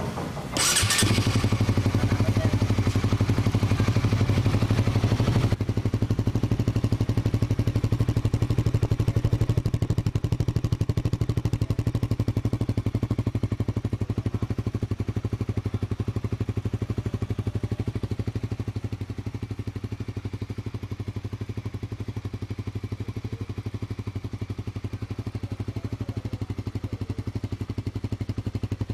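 Honda CB150R's single-cylinder four-stroke engine breathing through an aftermarket NOB1 Neo SS exhaust, starting up about a second in and then idling steadily with an even, rapid exhaust pulse. The idle settles slightly quieter later on.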